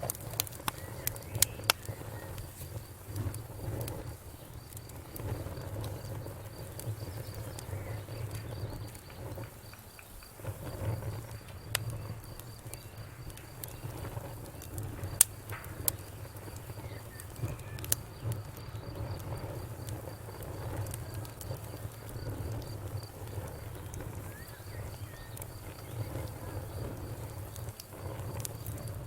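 Wood fire crackling: irregular sharp pops and snaps over a steady low rumble of the flames. A faint, steady high insect chirping runs behind it, breaking off briefly in the middle.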